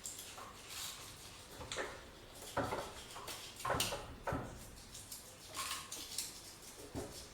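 Irregular metallic clinks and knocks of hand tools and steel parts being handled during tractor repair work, loudest in a cluster just before the middle.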